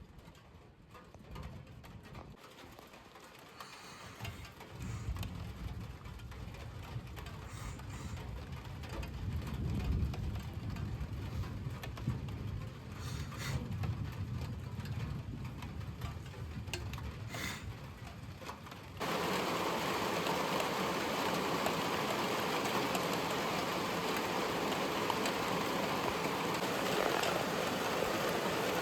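Low rolling thunder rumbling and swelling for several seconds over light rain. About two-thirds of the way through it switches abruptly to a steady, louder hiss of rain.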